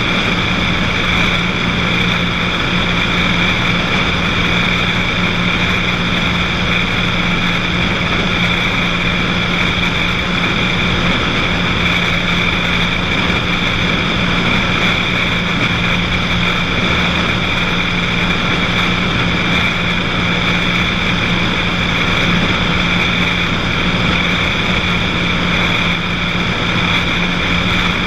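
Cessna 182's piston engine and propeller running at a steady cruise setting, an unchanging drone.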